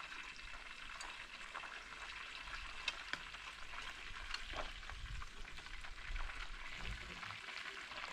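Chicken curry sizzling in a cooking pot: a steady frying hiss with scattered small pops and crackles.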